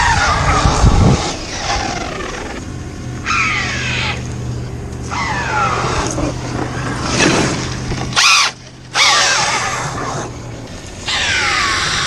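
Traxxas X-Maxx RC truck driven in bursts, its electric motor whine falling each time it slows, with a terrible clicking noise from the driveline. The cause is the center driveshaft coupler slipping inside the center differential.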